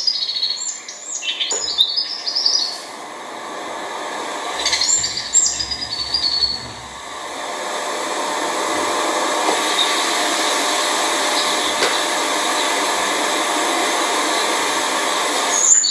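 Lazuli bunting chirping in quick high notes in the first few seconds, then giving way to a steady rushing noise that runs until near the end.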